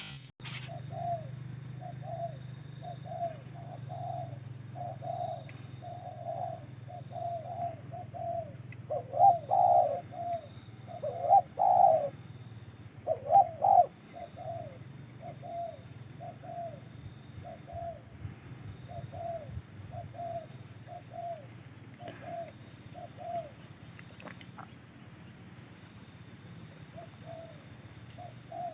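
Spotted dove (tekukur) cooing, a long run of short coos about one to two a second, loudest around nine to fourteen seconds in, thinning to a few scattered coos after about twenty-three seconds.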